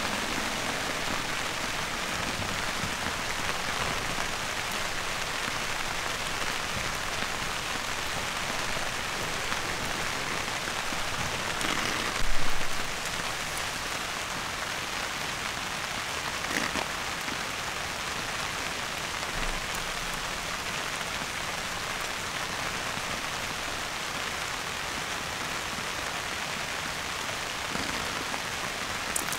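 Steady rain falling, an even hiss of drops, with one brief louder rush about twelve seconds in.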